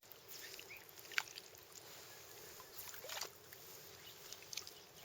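Shallow river water sloshing and splashing close by, with a couple of sharper splashes about a second in and around three seconds in.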